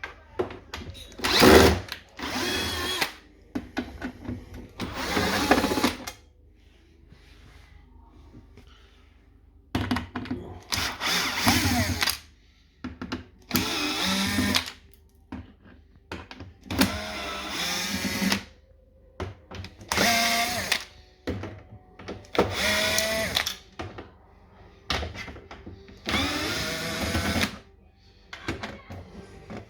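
Cordless drill-driver backing out screws around an integrated dishwasher door, run in about nine short bursts of one to two seconds each, with pauses between them as it moves from screw to screw.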